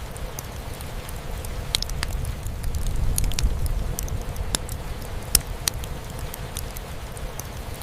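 Wood fire crackling in a fireplace, with irregular sharp pops and snaps, one louder pop past the middle, over a steady low rumble and the patter of rain.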